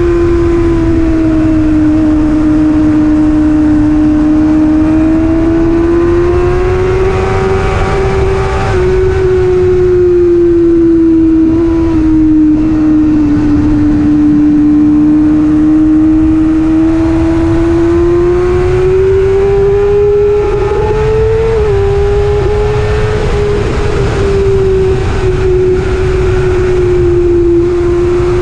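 Superbike racing motorcycle engine held at high revs, its note slowly rising and falling with a brief waver about three-quarters of the way through, under heavy wind rush on the microphone.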